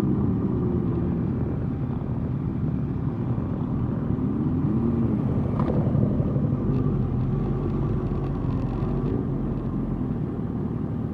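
Motorcycle engines riding at parade pace, their pitch rising and falling as the throttle opens and closes, over a steady low rumble. A single sharp click sounds a little before the middle.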